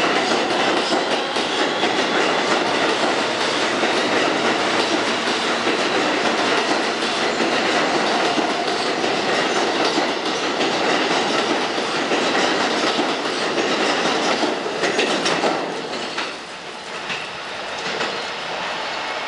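R160B subway train with Siemens propulsion pulling out of the station and running past, its wheels clattering over the rail joints with a faint motor whine above. About 16 seconds in the noise drops as the last cars pass, leaving a quieter rumble as it moves away.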